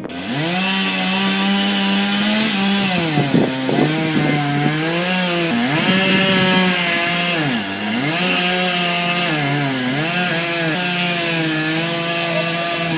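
Two-stroke chainsaw running at high revs while cutting wood, its engine pitch sagging and recovering several times as the chain loads up in the cut.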